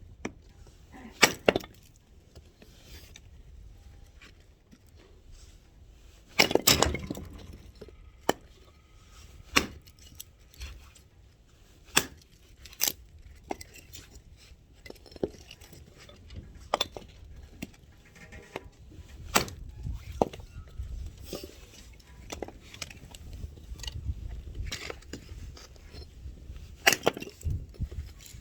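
Axe blows splitting firewood: a dozen or so sharp strikes at irregular intervals of one to three seconds, with wood cracking. The heaviest blows come about six to seven seconds in.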